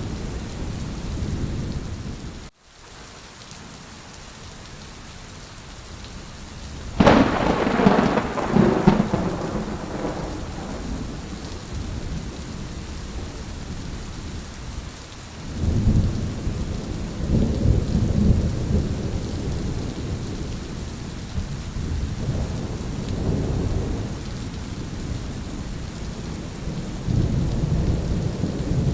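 Steady heavy rain during a thunderstorm. About seven seconds in, a sharp, loud thunderclap rumbles away over a few seconds; from about halfway through, long low rolls of thunder come and go. About two and a half seconds in, the sound cuts out for a moment.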